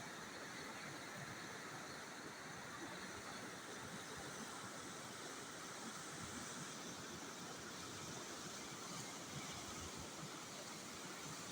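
Steady, even rushing of floodwater, a constant hiss with no breaks or distinct events.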